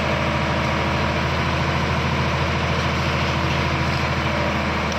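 Heavy diesel engine running steadily at a constant speed, its firing pulses even.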